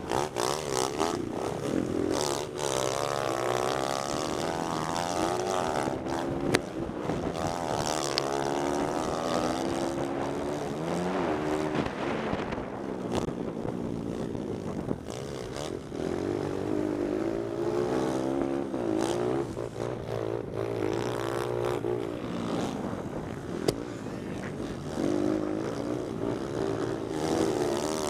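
Pit bike engine revving up and dropping back over and over as the rider accelerates and shifts, with wind noise on the microphone and a couple of sharp knocks.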